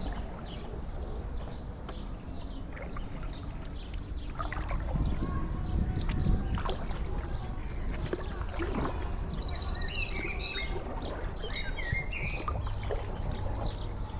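Songbird singing, with quick high trills and repeated notes that grow busier about eight seconds in, over a steady low outdoor rumble.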